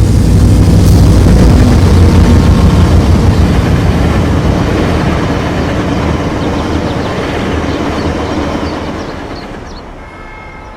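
Train passing at close range, loudest in the first few seconds with a deep engine rumble, then fading away near the end.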